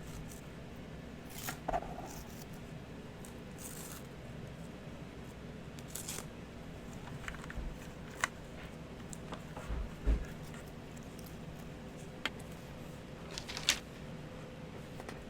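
Scattered rustles, light clicks and a few soft knocks from a keyboard box and its packaging being handled and opened, over a steady low background hum.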